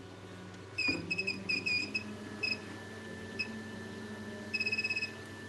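Short electronic beeps at one pitch from a bench electronics device: a handful of single beeps, then a quick run of about eight near the end, like buttons being pressed or held. A faint steady high whine starts about two seconds in, and there is a knock just before the first beep.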